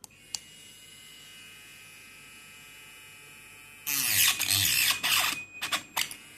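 Mini grinder switched on with a click and spinning up to a steady high whine. About four seconds in it starts cutting, with loud harsh bursts in short strokes. It goes back to a free-running whine near the end.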